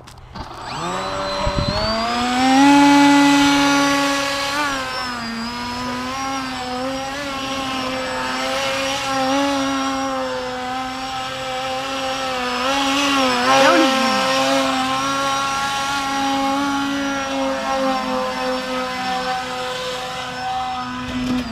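Electric RC airplane motor and propeller spinning up about half a second in to a high, steady whine, holding speed with small wavers and a brief dip near the middle, then cutting off at the end.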